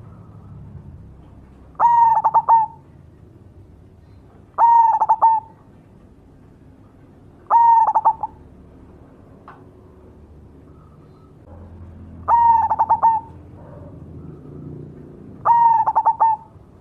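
Zebra dove (perkutut) of the black cemani variety singing: five short cooing phrases a few seconds apart, each a quick stutter of notes running into a held coo.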